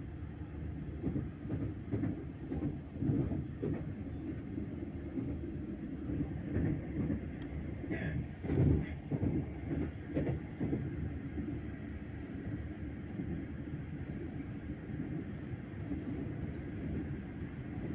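Train running: a steady low rumble with uneven thumps and rattles, loudest about eight to nine seconds in.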